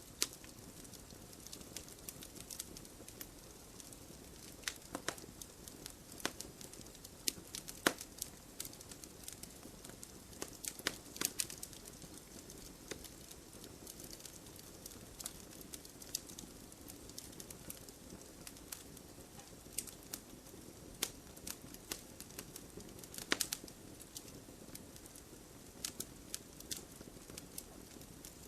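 Burning firewood crackling: irregular sharp pops and snaps over a steady soft hiss, with a few louder pops among them.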